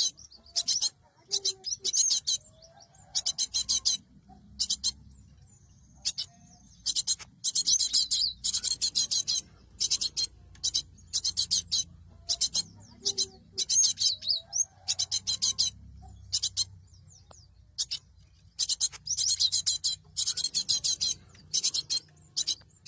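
Cinereous tit (gelatik batu) song: high-pitched, rapid chattering phrases in bursts of half a second to two seconds, repeated with short pauses.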